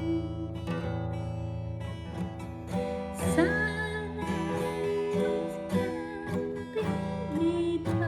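A woman singing a slow song over strummed acoustic guitar chords, her voice clearest a few seconds in.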